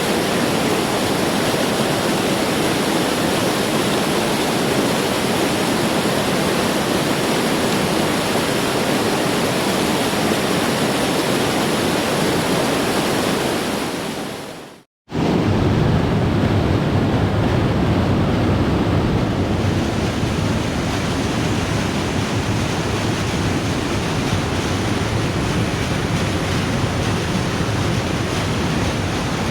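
Water of the Putna waterfall pouring, a loud steady rush. About halfway it fades out to a moment of silence, then returns with a deeper rumble.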